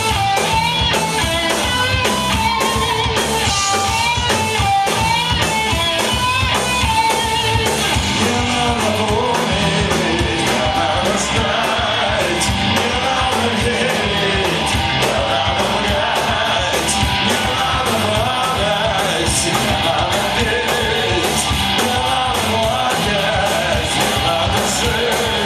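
Rock band playing live: electric guitars, bass and drums in an instrumental passage, with a wavering melodic lead line standing out over the first several seconds.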